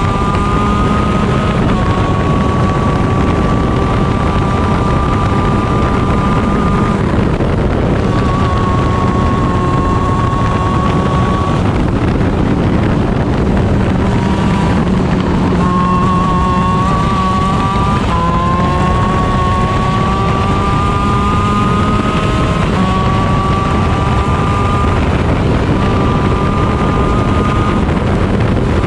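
Stock Honda 125 cc two-stroke shifter kart engine at racing speed, its pitch climbing steadily for a few seconds at a time and breaking off at gear changes and lifts every few seconds. Heavy wind noise on the onboard microphone.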